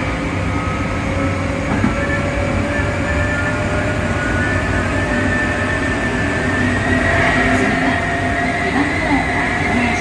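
Hankyu 5100 series resistor-controlled train under way, its traction motors whining with tones that climb slowly in pitch as it gathers speed, over a steady rumble of wheels on rail.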